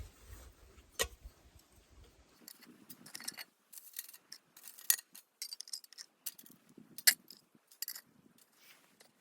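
Small objects being handled: an irregular run of light clicks and clinks, with sharper knocks about a second in, about five seconds in and about seven seconds in.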